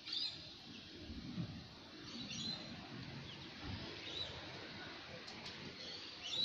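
Birds chirping, a short call every second or two, over a steady hiss.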